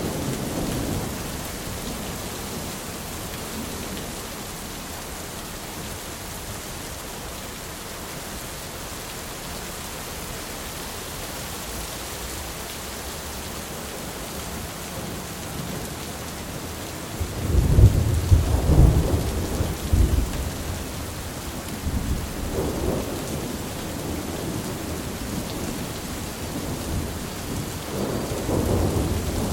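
Thunderstorm: steady rain with rolls of thunder. The loudest rumble comes about two-thirds of the way through, with smaller rumbles just after and near the end.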